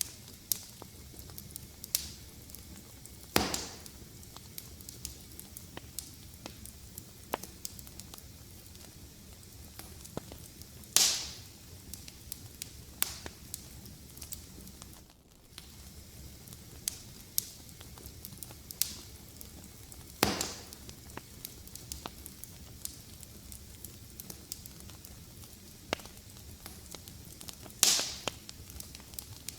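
Fire crackling in a fireplace: a steady scatter of small sharp crackles over a low hiss. Four louder pops are spread through it, a few seconds apart.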